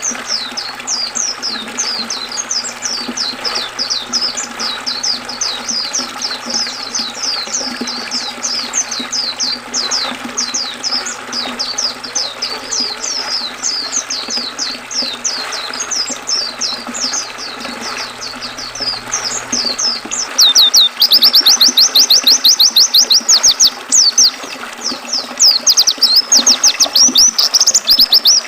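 White-eyes (pleci) singing continuously in quick high chirping phrases over a steady rush of river water. About twenty seconds in, a louder, fast rattling trill song takes over.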